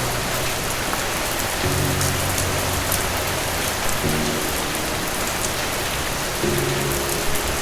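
Steady rain hiss, with soft low musical chords entering about every two and a half seconds underneath.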